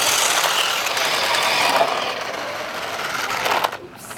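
Radio-controlled toy cars racing, their small electric motors and gears whirring with a dense, rattly noise. Near the end it drops off sharply after a click.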